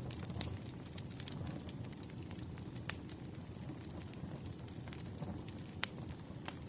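Wood fire burning: a steady low rustle and hiss, broken by scattered sharp crackles and three louder pops.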